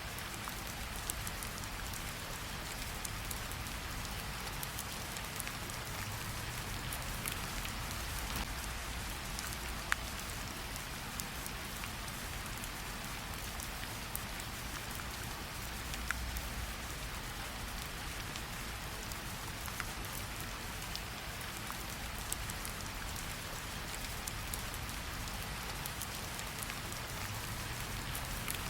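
Steady rain falling, with many individual drops ticking close by and a couple of louder drops partway through.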